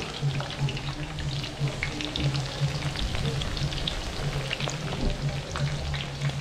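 Chicken pieces deep-frying in a pan of hot oil: a steady sizzle with many small crackling pops.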